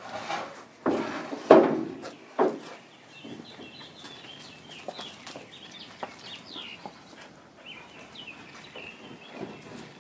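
Three loud knocks, the second the loudest, from pressure-treated 2x6 boards being forced into the truck bed in the first few seconds. Faint bird calls chirp in the background after that.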